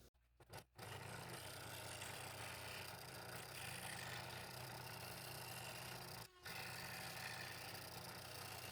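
Faint, steady hum of a small electric motor running, after a moment of near silence at the start, with a brief break about six seconds in.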